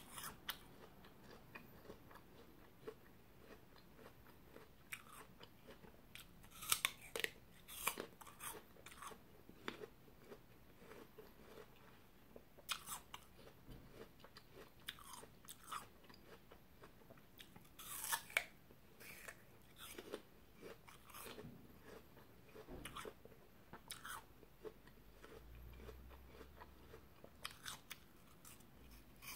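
Chewing and biting crisp apple slices, with scattered crunches, the loudest about 7 and 18 seconds in.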